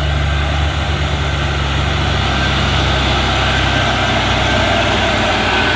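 Diesel engine of a Mitsubishi Fuso 6x4 truck pulling under load up a steep climb: a steady, loud, low drone.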